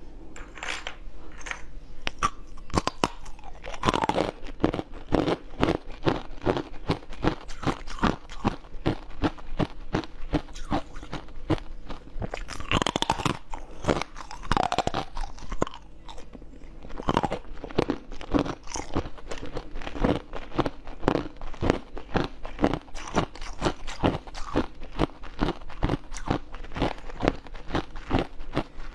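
Biting and chewing of frozen purple jelly bars: a rapid, unbroken run of crisp crunches.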